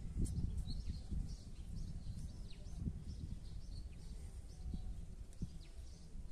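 Small birds chirping over a steady low rumble of outdoor noise.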